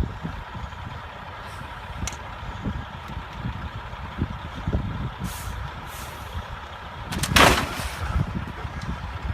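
Truck running with a steady low rumble and uneven low knocks. About seven seconds in there is a short, loud hiss of an air brake.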